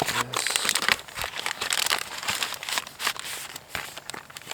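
Plastic packaging of an MRE being folded and handled: the flameless ration heater bag crinkling in quick, irregular crackles as it is folded over the food pouch and tucked away.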